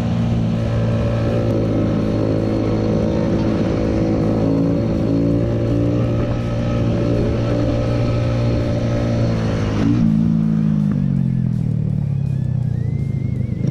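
Motorcycle engine running at a steady speed, then its pitch falls from about ten seconds in as the bike slows.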